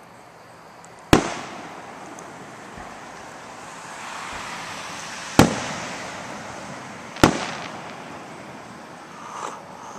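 Fireworks going off: three sharp bangs, about a second in, about five seconds in and about seven seconds in, each trailing off in a rolling echo.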